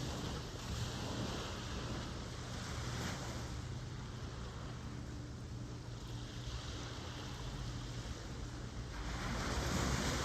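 Ocean surf washing in and out, with a low wind rumble on the microphone; the surf swells louder about nine seconds in.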